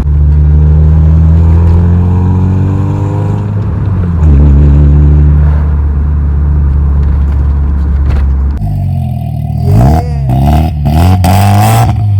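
Volkswagen MK4 Bora's engine through a newly installed aftermarket exhaust: a loud, deep, steady drone, then quick revs rising and falling in the last few seconds.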